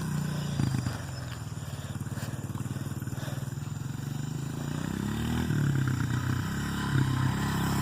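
Honda CRF125F dirt bike's single-cylinder four-stroke engine running at low revs with a steady pulsing note, rising in pitch a few times late on and getting louder toward the end.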